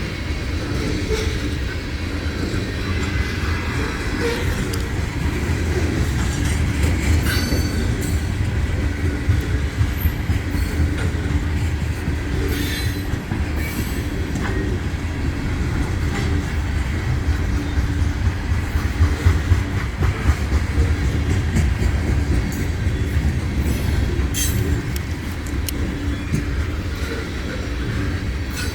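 A freight train of tank cars rolling past on the rails: a steady low rumble of wheels on track, broken by a few sharp high clicks and brief squeals from the wheels.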